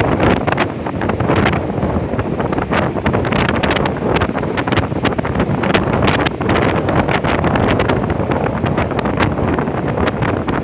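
Storm-force gusting wind buffeting the microphone: a loud, continuous rush with frequent sharp crackles and pops as gusts hit the mic.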